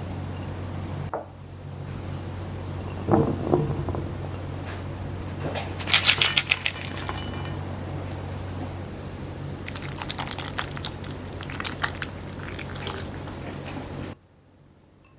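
Kitchen handling sounds: dishes and glassware clinking and clattering, with some liquid sounds, over a steady low hum. The sound cuts off abruptly about a second before the end.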